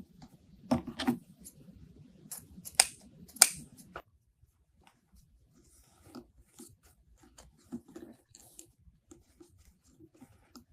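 Ribbon being handled while a bow is made: several crisp clicks and crinkles in the first four seconds, then softer scattered ticks and rustles.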